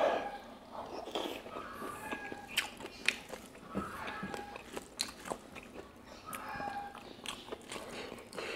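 Close-up eating sounds of a mouthful of pork curry and rice being chewed, with many short sharp clicks from the mouth, the loudest just as the food goes in.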